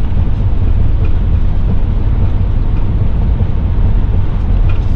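Steady low road rumble of a Class C motorhome cruising on the highway: engine, tyre and wind noise heard from inside the cab.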